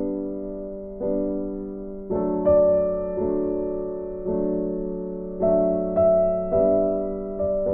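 Background music: slow, gentle piano chords, each struck and left to fade, a new one about every second.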